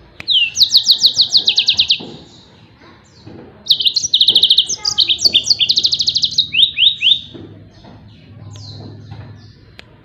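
Yellow-fronted canary (Mozambique canary) singing its rapid-fire 'tembakan' song: fast trills of quickly repeated, downward-sweeping high notes. There is a burst of about two seconds at the start, then a longer burst from about four to seven seconds, which ends in a few slower, separate notes.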